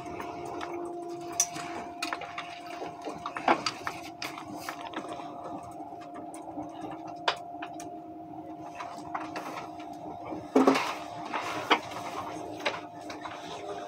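Running noise inside an ICE train's passenger car: a steady whine from the electric drive, with a lower tone that drops a little in steps, over rumble and scattered sharp clicks and knocks from the wheels on the track. The loudest knocks come about a quarter of the way in and about three quarters of the way through.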